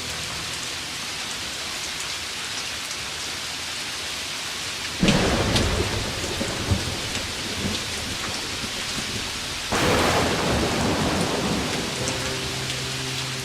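Steady hiss of heavy rain, broken by a sudden loud thunderclap about five seconds in that rumbles away over a few seconds, and a second burst of thunder about ten seconds in.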